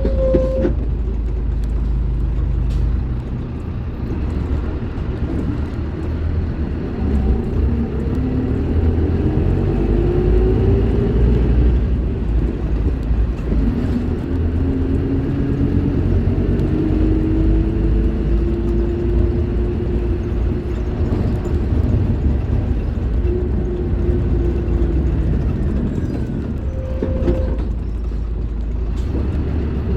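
Scania K310IB bus's five-cylinder diesel engine running under load, its pitch climbing slowly in several long rises with drops between them as the bus gathers speed through the gears. A short steady whine sounds just after the start and again near the end.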